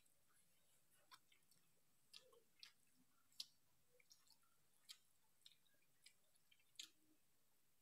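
Faint eating sounds of a person taking rice by hand and chewing: a string of small, irregular clicks and smacks.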